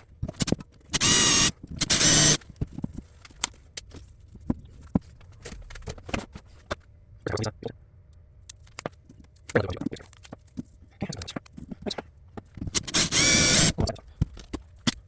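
Power drill with a reverse (left-hand) bit drilling out a stuck screw, running in three short bursts: two close together about a second in, and one near the end. Between the bursts there are small clicks and scraping as the bit and tools are worked against the screw.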